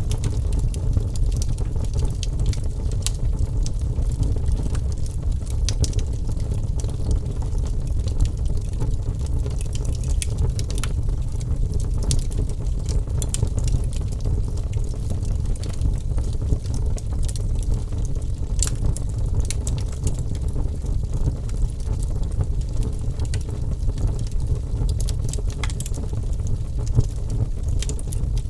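Wood fire crackling: frequent, irregular sharp pops and snaps over a steady low rumble of the flames.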